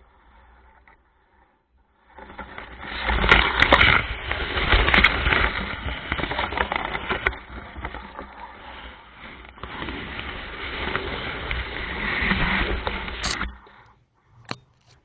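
Gusting wind rushing and buffeting the microphone of a small sailing skiff, rising in about two seconds in and dropping away just before the end, with a few sharp knocks among it.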